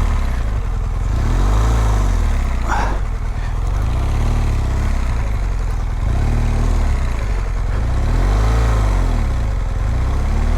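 BMW R1200GS boxer-twin engine revved up and down over and over, its pitch rising and falling every couple of seconds, as the bike is worked out of deep mud.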